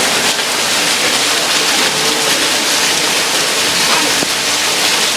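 Rain falling hard, a steady loud hiss with no break.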